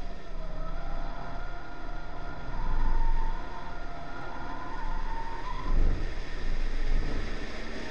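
Honda Civic's B18C4 1.8-litre four-cylinder engine pulling hard on track, its note climbing steadily and then dropping about five and a half seconds in, under steady wind and road noise on an outside-mounted camera. Two louder low rumbles come around three and six seconds in.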